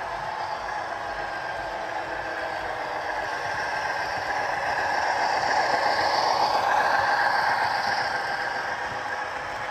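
HO scale model train running along the track with a steady motor whine and wheel rattle, swelling louder for a few seconds in the middle and then easing off.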